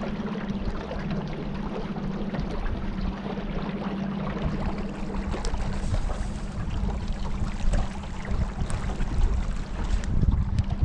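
Small motorboat under way: the steady drone of its motor over water rushing past the hull and wind noise, the rumble growing louder near the end.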